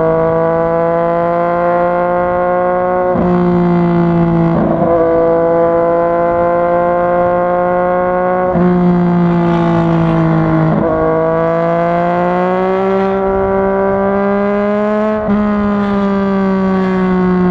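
Yamaha MT-09's 847 cc three-cylinder engine under way, its pitch climbing slowly and then dropping sharply about five times, typical of upshifts under steady acceleration.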